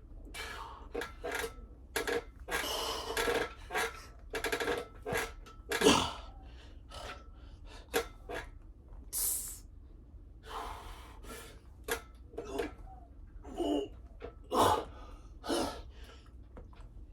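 A man's heavy, effortful breathing while exercising: repeated sharp exhales and gasps at an irregular pace, a few voiced like strained grunts, the strongest about six seconds in.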